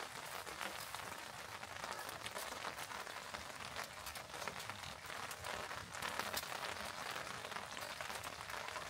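Light rain pattering steadily: a dense, even patter of small drops.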